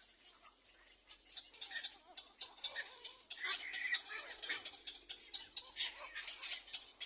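A dense patter of short, sharp clicks and rustles at a little egret nest with chicks, busiest from about three seconds in.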